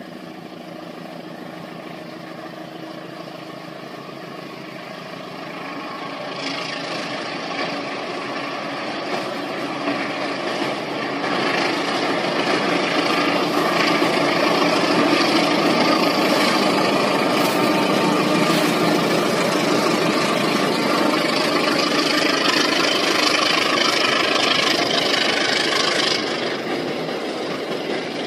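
Diesel locomotive hauling passenger coaches, its engine droning as it approaches and growing steadily louder, then the train crossing a steel truss bridge with wheel and rail noise at its loudest through the middle. The sound drops suddenly near the end.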